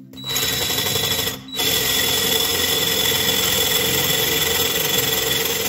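Parkside PABS 20 Li E6 cordless drill running a 4 mm bit into a thin steel box to enlarge a smaller hole, a steady motor whine with the rasp of cutting metal. It stops briefly about a second and a half in, then runs on steadily.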